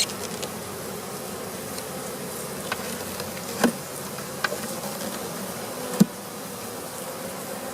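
Swarm of honey bees buzzing in a steady hum around an opened hive. A few short sharp knocks cut through it, the loudest about six seconds in.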